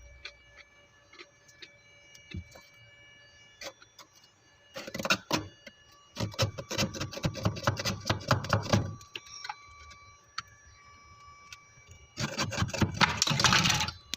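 Frost being scraped off the inside of a freezer: three bursts of rapid, scratchy strokes, the middle one lasting about three seconds, with faint ticking between them.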